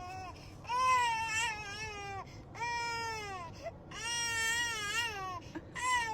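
A dog whining in long, high-pitched, drawn-out cries, about four of them, each wavering and then falling in pitch at the end.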